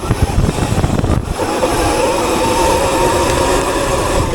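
Electric motor of a Sur Ron dirt bike (Sotion FW01 swap, tuned to 18 kW, 700 A phase) whining steadily under power while riding, the whine settling in about a second in, with heavy wind buffeting on the microphone.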